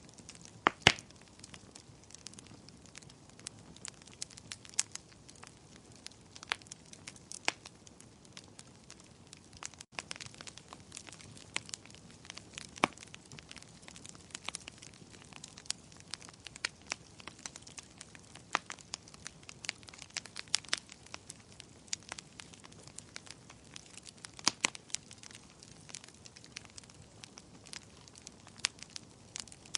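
Wood fire crackling in a fireplace: sharp, irregular pops and snaps over a soft low hiss, the loudest pop about a second in.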